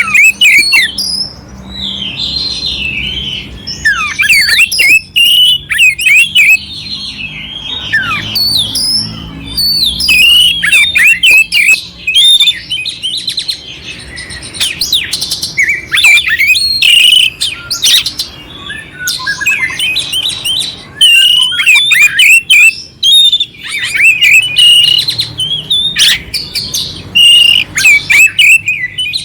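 Oriental magpie-robin (kacer) singing a fast, varied song of clear whistled notes mixed with rough, harsh fill-in notes, phrase after phrase with short breaks.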